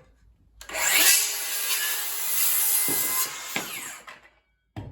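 DeWalt 20V Flexvolt circular saw (DCS573) spinning up about half a second in, then cutting through wood for about three seconds. The blade spins down after the cut.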